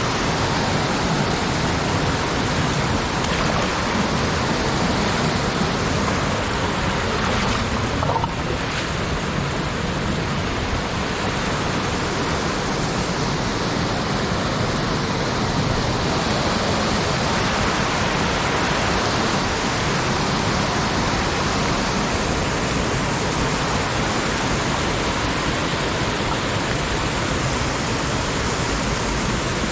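Mountain stream rushing and cascading over rocks close to the microphone: a loud, steady water noise.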